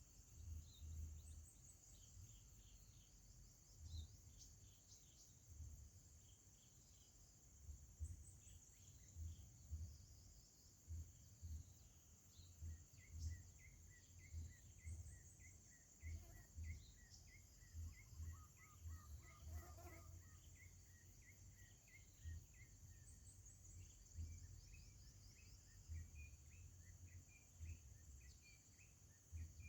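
Faint outdoor ambience: a steady high-pitched insect drone, with short bird chirps and irregular low thumps underneath.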